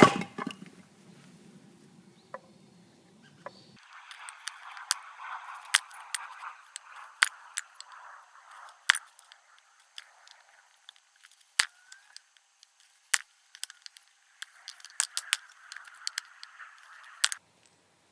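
Firewood being split: a string of irregular sharp cracks and knocks of wood over a soft rustle, stopping suddenly near the end.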